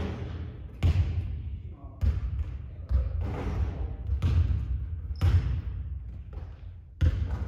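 Basketball bouncing hard on a court floor, about six thuds spaced roughly a second apart, each with a short ringing decay.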